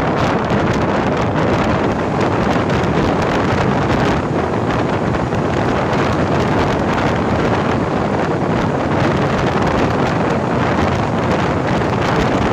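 Steady rush of wind buffeting the microphone over the rumble of a moving train.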